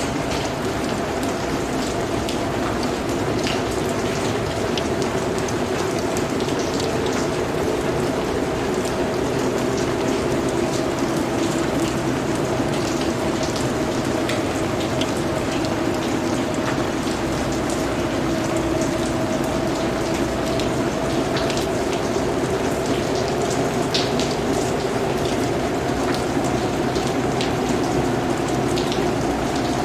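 Steady rain falling, with many individual drops striking close by, over a low, slowly wavering drone.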